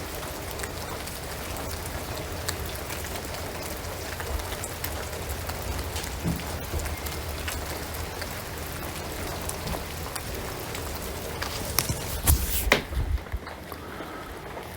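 Rain falling on a shingled roof and pine trees: a steady hiss with scattered drop ticks. About twelve seconds in comes a short cluster of loud knocks, after which the hiss thins.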